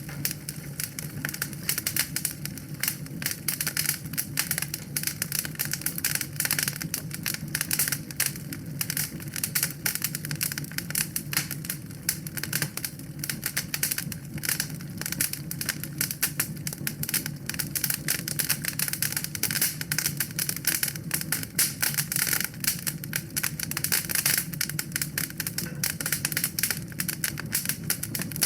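Wood fire crackling in a fireplace: dense, irregular pops and snaps over a steady low rumble of the flames.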